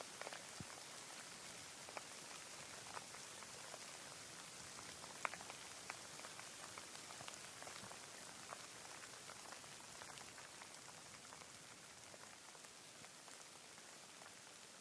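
Light, steady rain: a faint even hiss with many individual drops ticking close by, one sharper drop about five seconds in.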